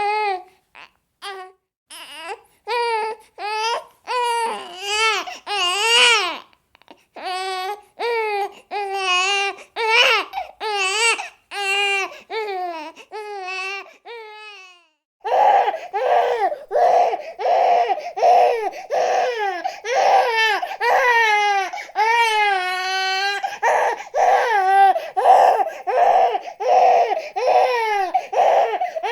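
Baby crying in a chain of short, pitched wails with brief breaths between them. About halfway through it switches to a different recording of the crying, with a steady hiss behind the cries.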